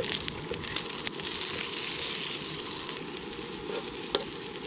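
Bacon and sliced common puffball mushrooms frying in a pan over a campfire: a steady sizzle with scattered sharp pops of spitting fat.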